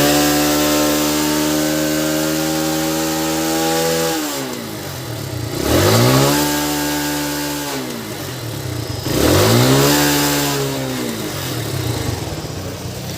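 TVS Sport motorcycle's single-cylinder engine held at a steady high rev, dropping back about four seconds in, then revved up and let fall twice. It is being revved to test whether its popping ('phatas') sound is cured after the carburettor and its mounting screws were refitted and tightened.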